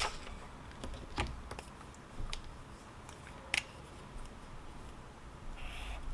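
A few sharp, light clicks and taps spaced a second or so apart, the loudest about three and a half seconds in, with a short scratchy rustle near the end: small handling sounds at a study desk.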